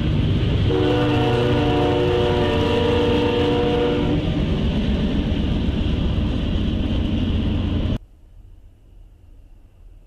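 Diesel freight locomotives running past with a heavy rumble, the lead unit sounding its air horn as a steady chord of several notes for about three and a half seconds. The sound cuts off suddenly about eight seconds in, leaving only a faint hiss.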